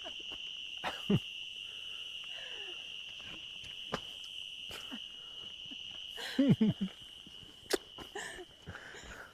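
A steady, high-pitched insect chorus drones without a break. A few short knocks are scattered through it, and there is a brief louder low sound about six and a half seconds in.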